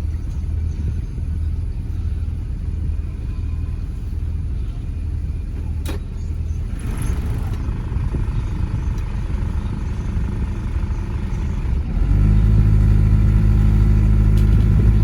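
An engine running steadily with a low rumble, with a sharp click about six seconds in. About twelve seconds in the engine gets suddenly louder, with a stronger, steadier note.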